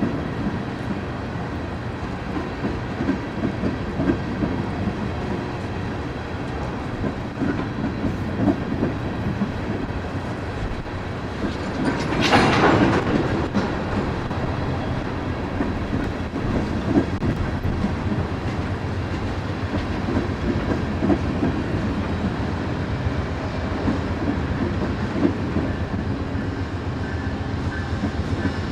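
Amtrak Empire Builder passenger train rolling along, a steady rumble with wheels clacking over rail joints. About twelve seconds in, a brief loud rushing burst stands out above it.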